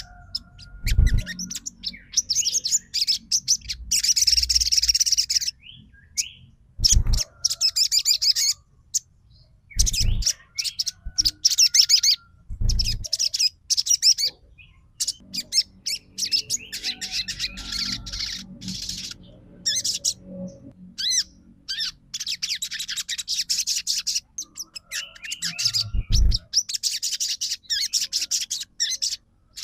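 Sogon trotol songbird singing: repeated bursts of rapid, high-pitched chattering trills, each a second or two long, separated by short pauses. A few dull low thumps are heard between the bursts.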